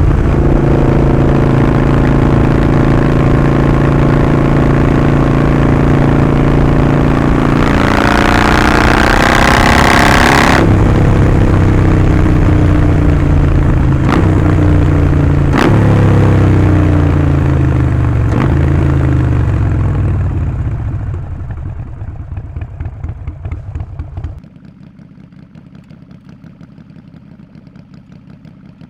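Harley-Davidson Sportster 48's 1200 cc V-twin running through a Vance & Hines slip-on exhaust while riding: steady cruising, a rising rev about a third of the way in, then the pitch stepping down several times as it slows, with a few sharp clicks. Near the end the sound drops abruptly to a much quieter low running.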